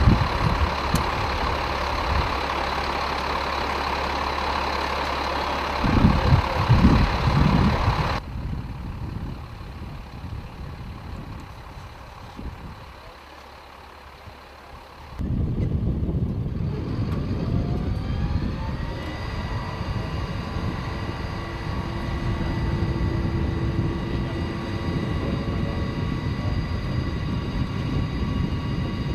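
Heavy truck engine running, with a burst of loud low rumbling about six seconds in. The sound drops suddenly about eight seconds in and stays quieter for a while. Near the middle the engine sound returns abruptly, with rising whines.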